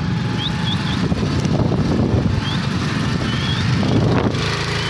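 Motorbike engine running with road and wind noise as it rides along. Short rising high chirps from a bird come several times over it.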